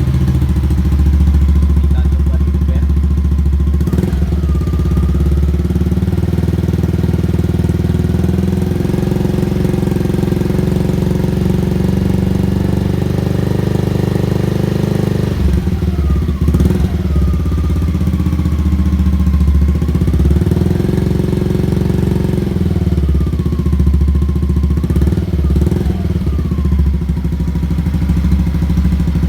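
Yamaha Lexi scooter's single-cylinder engine idling through a Daytona GP Slash aftermarket exhaust with its dB killer removed, giving a bassy exhaust note. The throttle is blipped several times, the revs rising and falling back to idle: about four seconds in, around sixteen seconds, and two or three more times in the last third.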